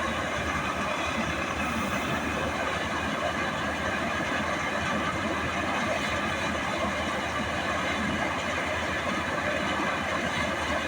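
Swaraj 855 FE tractor's three-cylinder diesel engine running steadily at a constant speed.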